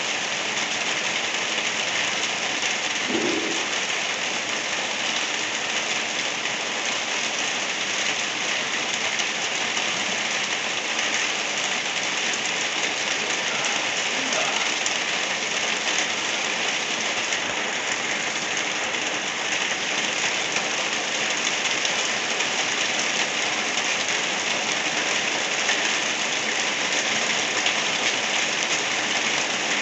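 Steady, gentle rain falling, an even dense patter of drops on surfaces.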